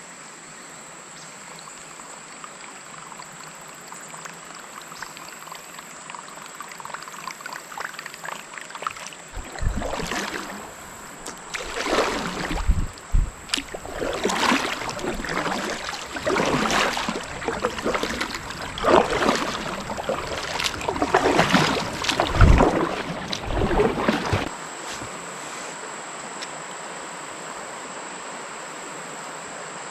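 Kayak paddle strokes splashing in creek water, a dozen or so irregular strokes with a few low knocks, starting about a third of the way in and stopping a few seconds before the end. Around them, a steady wash of moving water and a thin steady high-pitched hum.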